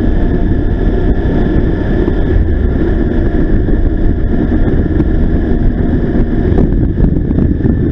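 Motorcycle riding along, its engine running steadily under heavy wind noise on the microphone.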